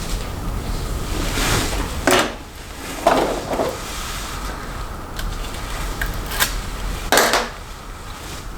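Plastic snap-on hair rollers being handled: several short clicks and clacks with rustling as hair is wound onto rollers and the covers are snapped into place.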